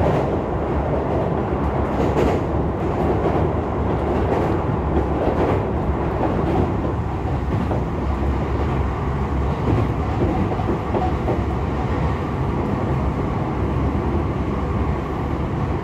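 Tokyo Metro 16000 series electric train running at speed, heard from inside the passenger car: a steady rumble of wheels on rail with occasional clacks over rail joints.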